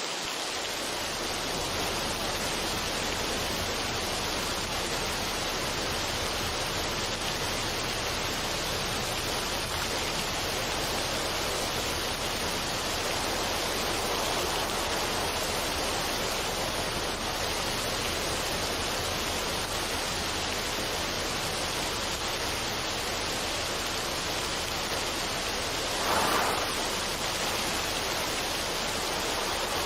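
Steady, even rushing noise like running water, with a brief louder swell near the end.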